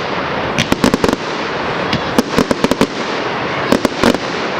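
Firework display going off: three quick volleys of sharp bangs, about a second in, in the middle and near the end, over a constant hissing crackle.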